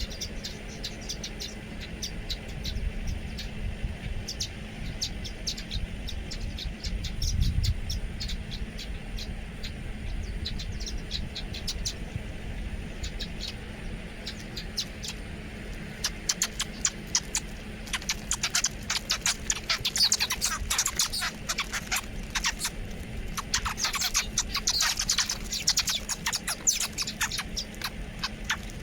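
Several small birds chirping in quick, short notes, sparse at first and then a dense, busy chorus for the second half, over a steady low rumble.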